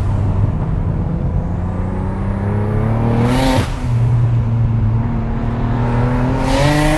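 Single-turbo BMW N54 straight-six in a 335i pulling hard under acceleration, heard from inside the cabin. The engine note rises through a gear, breaks with a short hiss at an upshift about halfway through, then rises again to another shift and hiss at the end.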